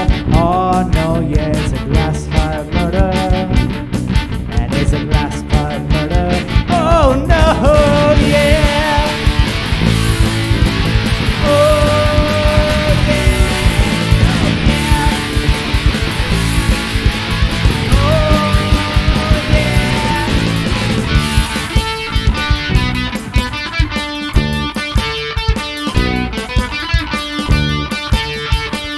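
Rock band of electric guitar, bass guitar and drums playing an instrumental passage, with sustained guitar notes that bend and slide in pitch over a steady bass and drum groove. Cymbals wash over the middle, and from about two-thirds through the playing turns to a choppier, clipped rhythm.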